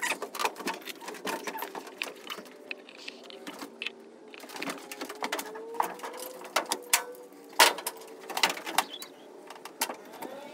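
Irregular clicks and knocks of a ratchet tie-down strap being worked to secure the race car's front tire, with a faint wavering hum in the middle.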